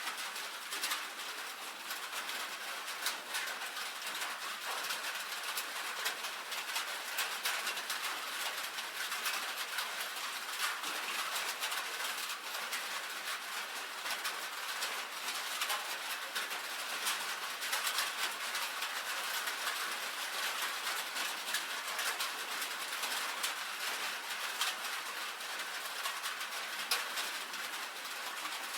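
Rain on a tin roof: a dense, steady patter of many small drop ticks on the metal sheeting, with no let-up.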